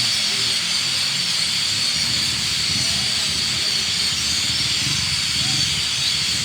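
A huge flock of small birds roosting together in one tree, thousands of calls blending into a dense, steady high-pitched chatter.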